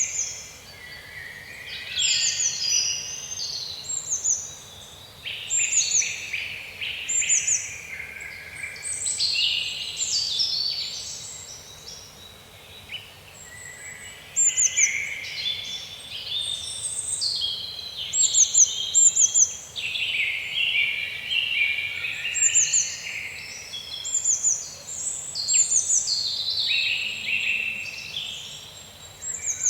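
Several birds singing at once in woodland, a busy chorus of overlapping phrases with short, repeated, high down-sweeping notes, over a faint steady background hiss.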